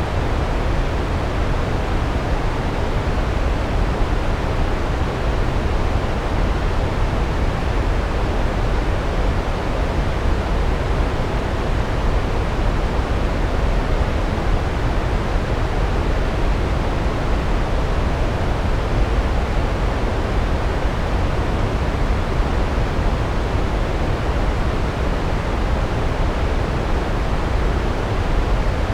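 Large waterfall running: a steady, deep rushing of falling water, even in level throughout.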